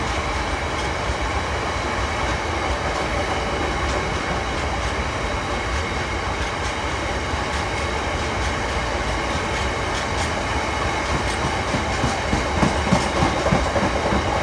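Freight train hauled by a class 66 diesel locomotive rolling past, a steady rumble with wheels clacking over the rail joints, the clacking growing stronger near the end.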